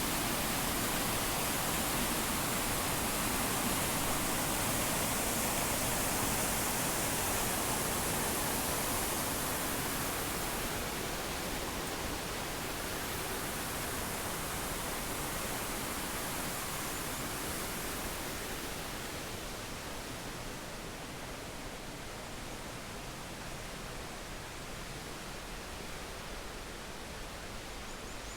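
Triberg waterfall's cascading water rushing steadily, growing fainter in two steps over the second half.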